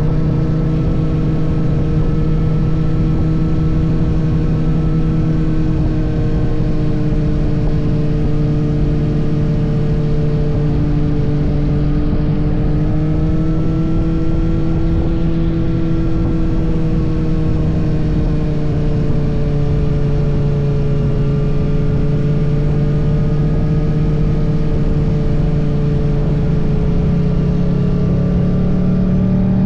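Kawasaki ZX-6R's 636 cc inline-four engine running at steady cruising revs under wind rush. Its pitch rises a little toward the middle and eases back, with no hard revving.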